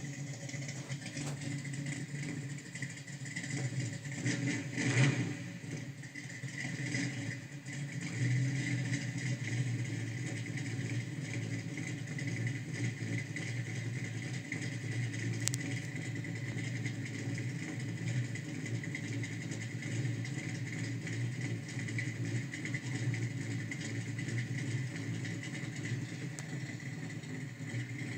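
1970 Chevrolet Chevelle SS 454's big-block V8 running with a low, steady rumble, briefly louder about five seconds in.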